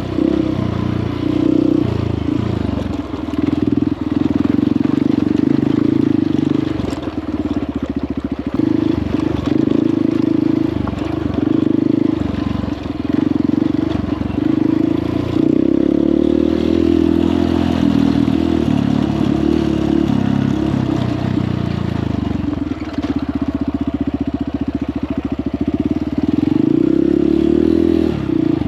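A Honda CRF150L dirt bike's single-cylinder four-stroke engine running under load, its revs rising and falling with the throttle throughout.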